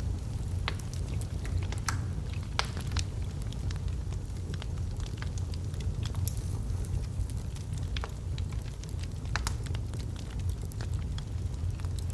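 Log fire burning in a fireplace: a steady low rumble of flame with irregular sharp crackles and pops from the wood.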